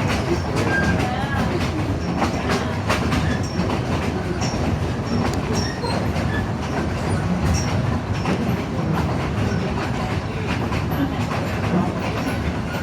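Narrow-gauge passenger train cars rolling along the track: a steady rumble with wheels clicking over rail joints and brief high wheel squeals now and then.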